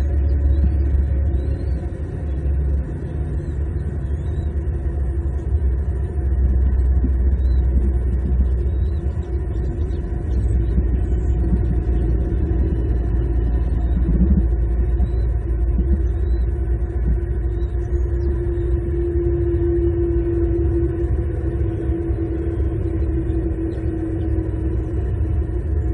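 Steady low rumble of outdoor background noise, with a droning hum that swells about two-thirds of the way through. Faint high chirps of small birds come every second or two.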